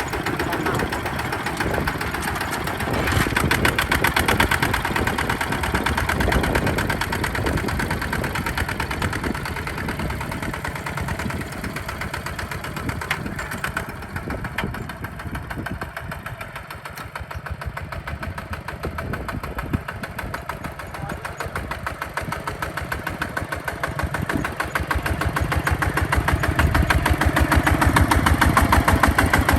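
Hinota HG Gold 155 DI tractor's diesel engine running with a rapid, even chugging, pulling a plow through mud. It grows louder a few seconds in, eases off around the middle, and builds up again near the end.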